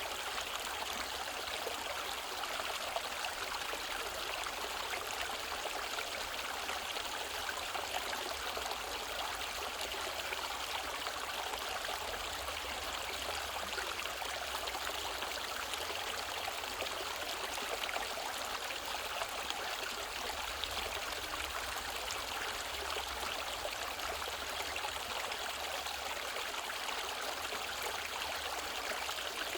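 A mountain valley stream running over rocks: a steady splashing and trickling that does not change.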